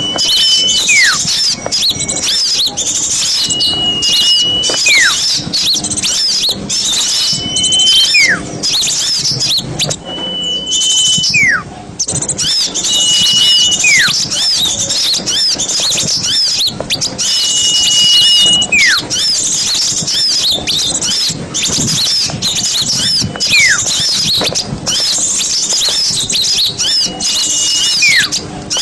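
A dense, noisy chorus of many small birds chattering high and fast. Through it one clear call repeats every few seconds: a held whistle, then a whistle sliding down in pitch. This is a recording played to lure forest birds.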